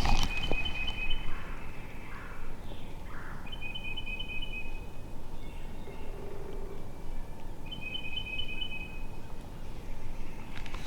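A small songbird singing a short, rapid, high trill three times, each about a second long, over a steady low rumble of wind noise.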